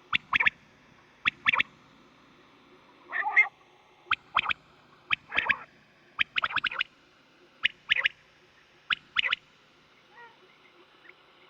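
Recorded quail calls: short, sharp notes in quick groups of two or three, repeated about once a second, falling away about ten seconds in.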